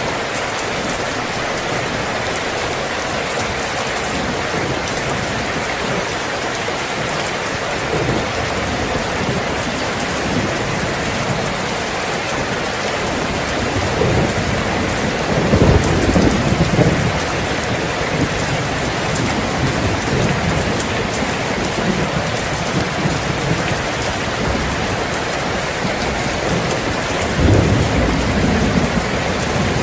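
Steady heavy rain falling on surfaces, with low rolls of thunder rumbling twice: a longer roll about halfway through and a shorter one near the end.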